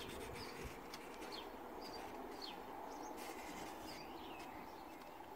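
Small birds chirping, short high calls every second or so, over a faint steady background hum.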